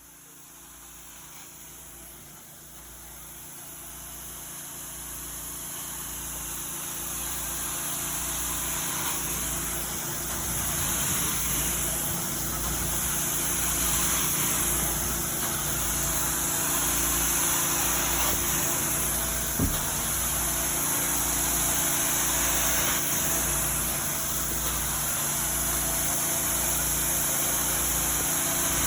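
A carpet-cleaning machine's motor running steadily with a high whine and a low, regular pulsing. It grows louder over the first ten seconds or so, then holds level. A single short knock comes about two-thirds of the way through.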